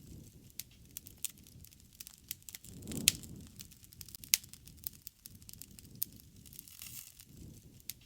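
Wood campfire crackling, with irregular sharp pops of burning wood over a low rush of flame. The rush swells about three seconds in, where the loudest pop comes, and again near the end.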